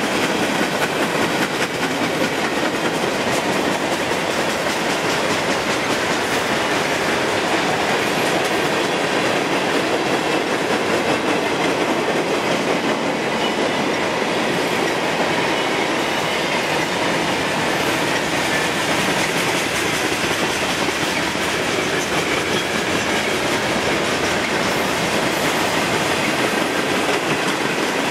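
Freight train cars (boxcars, covered hoppers and tank cars) rolling past at trackside: steady, continuous noise of steel wheels running on the rails.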